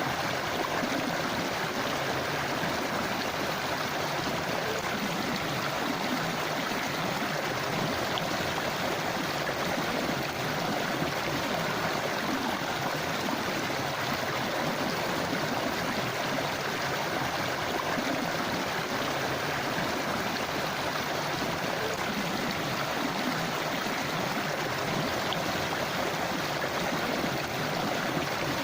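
A forest river flowing and gurgling steadily, with no change.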